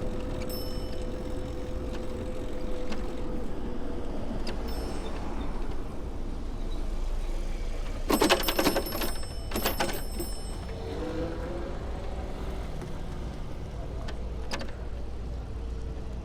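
City street traffic heard from a moving bicycle: a steady rumble of tyres and wind. There is a burst of clicking and rattling about eight to ten seconds in, and a passing vehicle's engine rises in pitch as it speeds up near the end.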